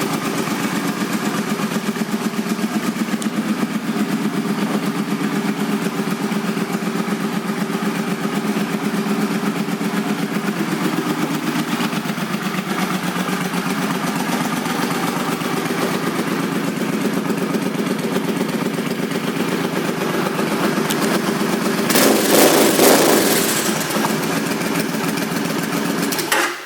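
2005 Suzuki C50 Boulevard's 805 cc V-twin, fitted with aftermarket exhaust pipes, idling steadily. It is revved briefly near the end and then shut off.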